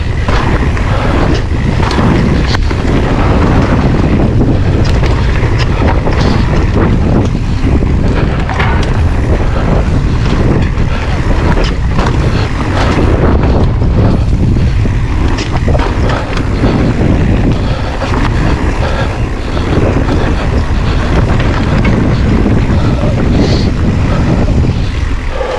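Heavy wind buffeting on a GoPro's microphone while riding an e-mountain bike along a woodland trail, with tyre rumble and frequent knocks and rattles from the bike. It eases off near the end as the bike slows.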